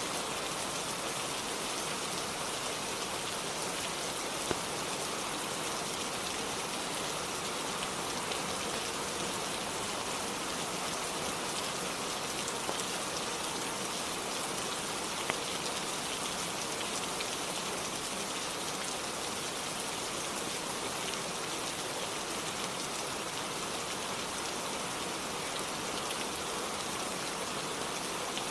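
Steady rainfall, an even unchanging hiss, with a few faint isolated clicks.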